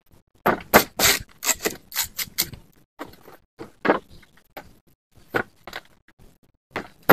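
A series of irregular knocks and scrapes, dense at first and then sparser.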